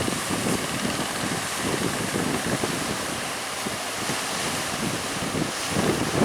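Strong wind buffeting the microphone over the rush of rough sea waves.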